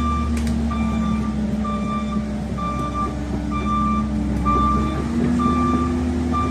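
Cat 308 excavator's diesel engine running steadily while its travel alarm gives a high beep about once a second, the sign that the machine is moving on its tracks.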